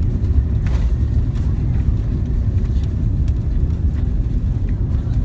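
Steady low rumble inside the cabin of an Airbus A330-300 airliner on the ground after landing, with a few faint clicks and rattles.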